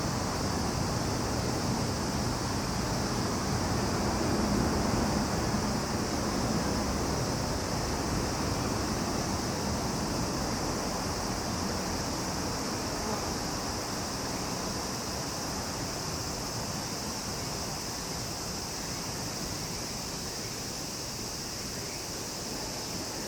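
Chorus of summer insects, a steady high-pitched drone that does not let up, over a low background rumble that swells slightly about four to six seconds in.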